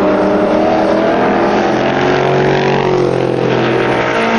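Several classic sports racing cars running at speed, their engine notes overlapping and rising and falling in pitch.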